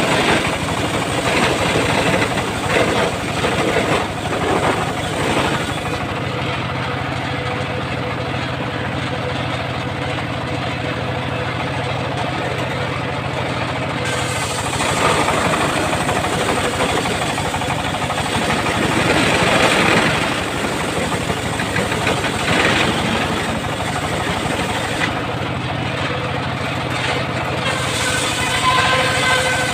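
The engine of a homemade circular sawmill running steadily, with a rougher, louder stretch a little past the middle.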